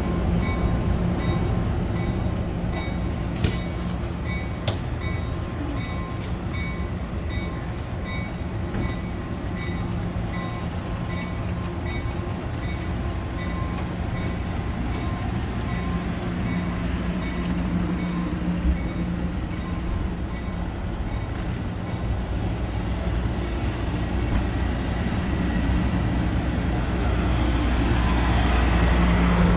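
Diesel train rumbling steadily, with a bell dinging about twice a second for the first twelve seconds or so and two sharp clicks a few seconds in; the rumble grows louder near the end.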